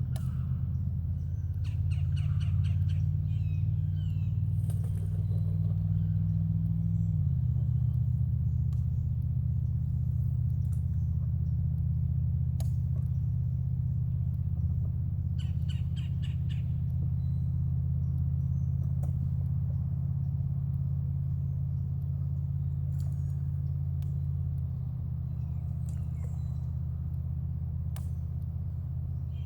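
A steady low motor hum made of several even tones, shifting in pitch about seven seconds in and dropping in level near the end. Birds chirp briefly over it twice, near the start and about halfway through.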